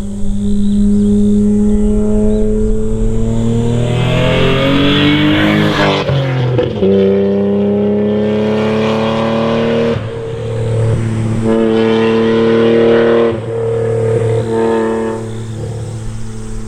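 Toyota JZX90 Mark II's 1JZ-GTE twin-turbo straight-six through a modified dual exhaust, revs climbing for a few seconds and dropping abruptly about six seconds in. The engine then runs steady, climbs again and drops off sharply near thirteen seconds, with one more short rise after.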